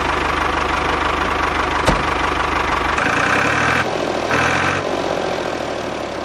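Small motor of a homemade mini tractor running steadily with a fine, rapid knocking pulse. About three seconds in the sound changes, and a higher whine joins it twice briefly.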